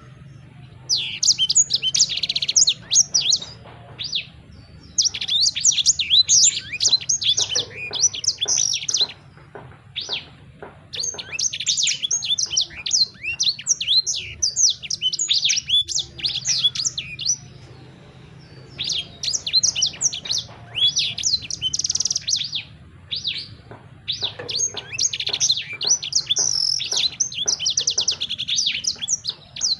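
A songbird singing in bouts of rapid, high chirps and trills lasting a few seconds each, with short pauses between them, over a faint low hum.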